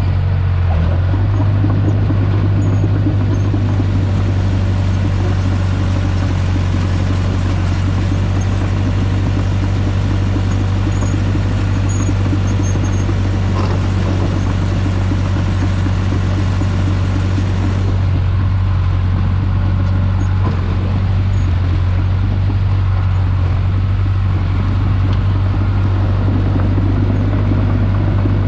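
Earthmoving machine's engine running steadily at working throttle, a constant low drone, while clay is being skimmed and packed on a pond dam.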